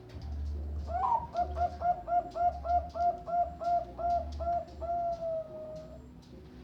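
Perkutut (zebra dove) of the Bangkok song line singing. About a second in it gives a quick run of short coos, about four a second, and ends with one long drawn-out note that falls slightly.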